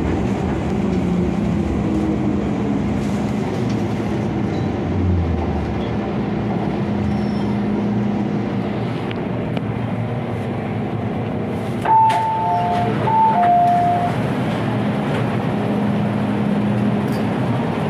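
MTR Kwun Tong line M-Train running between stations: steady wheel-and-track rumble with a traction motor hum that falls slightly in pitch at the start. About two-thirds of the way in a click is followed by a short two-tone electronic chime, a high note and a lower note, each heard twice.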